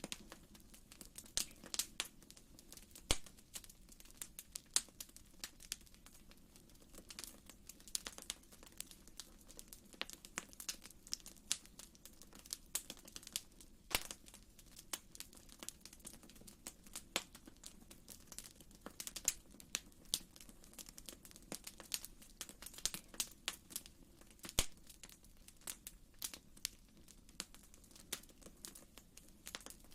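Fire in a fireplace crackling: irregular sharp pops and snaps, several a second and now and then a louder one, over a faint steady low rush.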